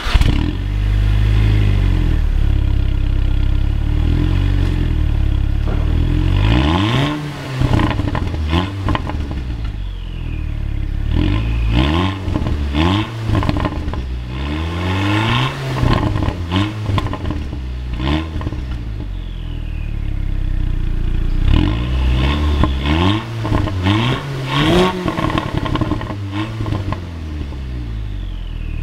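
Audi TT 2.0 TFSI's turbocharged four-cylinder engine through its stock exhaust, idling and then revved repeatedly in quick blips, the pitch climbing and falling back each time. The revving comes in two runs, with a steady idle between them.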